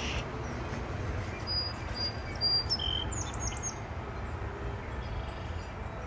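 A songbird gives a short run of high chirps and whistled notes, some sliding down in pitch, between about one and four seconds in, over steady low wind noise on the microphone.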